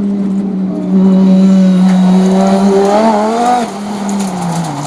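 Audi Sport quattro S1 Pikes Peak race car's turbocharged five-cylinder engine running hard at high, steady revs. It gets louder about a second in, then its pitch and level drop away near the end.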